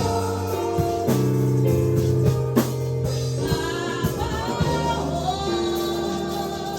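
Live gospel worship music: a band with bass, keyboard and drums accompanying congregational singing.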